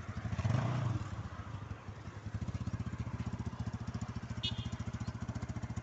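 Motorcycle engine idling with a steady, even beat that grows louder about two seconds in.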